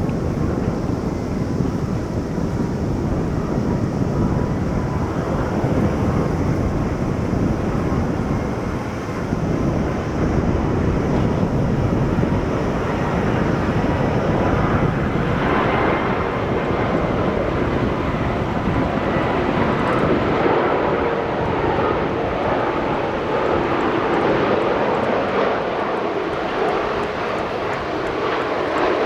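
Jet airliner engines running loud and steady: a broad rushing noise with a thin, steady whine through it, growing brighter about halfway through.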